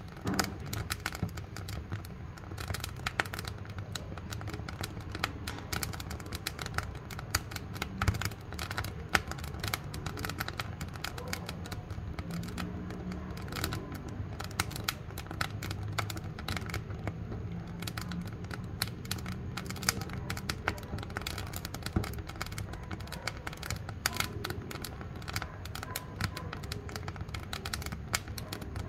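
Wood fire burning in a wood-burning cook stove: dense, irregular crackling with a few louder pops over a low, steady rumble of the flames.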